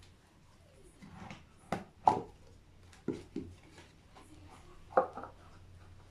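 Brake booster parts and hand tools handled on a workbench: about five sharp knocks and clinks of metal, two of them much louder, one about two seconds in and one about five seconds in.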